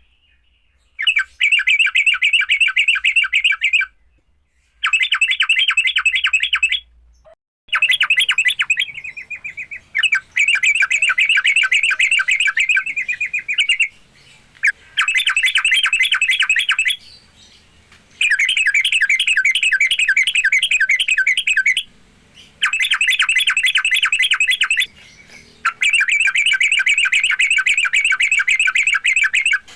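Yellow-vented bulbul (trucukan) giving its aggressive 'fighting' chatter: fast runs of sharp repeated notes in about eight bouts of two to four seconds each, with short pauses between.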